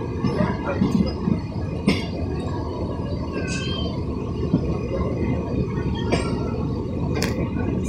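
Running noise of an electric multiple unit local train, heard from on board as it rolls into a station: a steady rumble of wheels on rail, with sharp clacks over rail joints and points about two, six and seven seconds in. A brief high squeal comes about three and a half seconds in.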